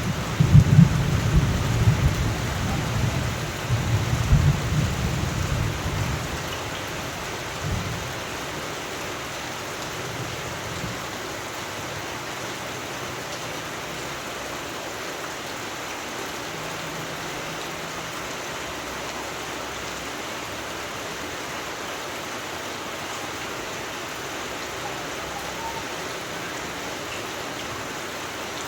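Rolling thunder rumbling and dying away over the first several seconds, over a steady downpour of rain that carries on alone afterwards.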